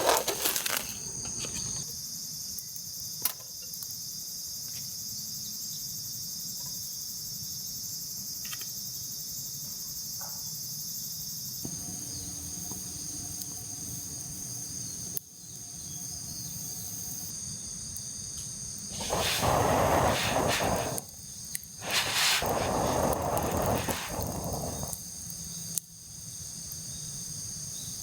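A steady, high-pitched chorus of insects buzzing outdoors. About two-thirds of the way through, two louder stretches of rustling noise, each a couple of seconds long, rise over it.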